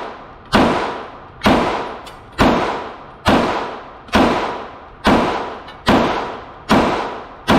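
9mm pistol fired in a slow, steady string, about one shot a second, nine shots in all, each sharp report dying away quickly.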